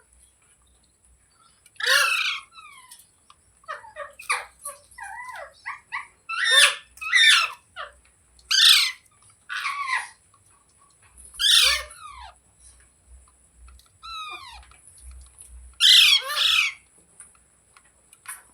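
Pet green parrot giving a series of loud screeching calls, about a dozen at irregular intervals of a second or two, many sliding down in pitch.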